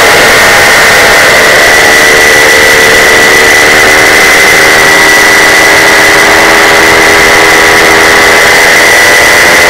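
Paramotor engine and propeller running steadily in flight, very loud and close to the microphone, with an even pitch throughout.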